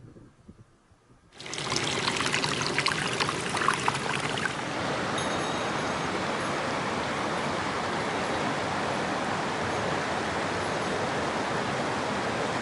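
Mountain stream water rushing and splashing over rocks, starting abruptly about a second and a half in and then running steadily.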